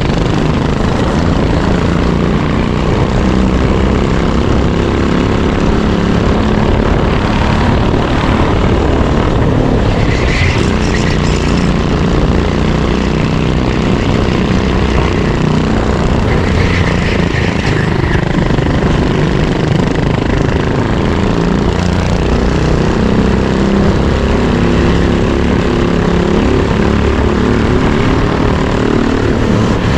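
Racing kart engine at full race pace, its pitch rising and falling over and over as the kart accelerates and lifts through the corners, heard from an onboard camera under steady wind noise.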